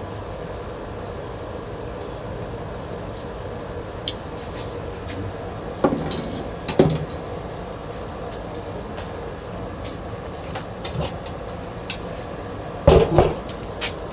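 Metal ceiling-fan parts clinking and knocking now and then as they are handled and set down, the loudest cluster of knocks near the end, over a steady background hum.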